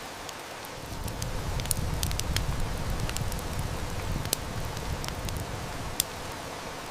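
Steady heavy rain with a wood fire crackling, giving sharp snaps every so often. A low rumble of distant thunder swells about a second in and fades away over the next few seconds.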